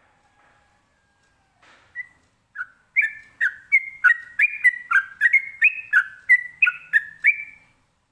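Sooty-headed bulbul (trucukan) singing: after a couple of single notes, a fast run of clear whistled notes about three seconds in, alternating between a higher and a lower pitch at roughly three notes a second.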